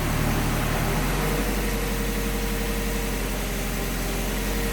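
LS V8 engine in a Mazda Miata idling steadily with its electric radiator fans running, heat cycling to burp air out of the freshly repaired cooling system. A thin steady tone comes in about a second and a half in.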